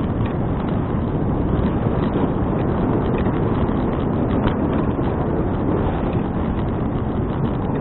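Wind buffeting an action camera's microphone while riding a bicycle: a loud, steady rushing noise with a few faint ticks.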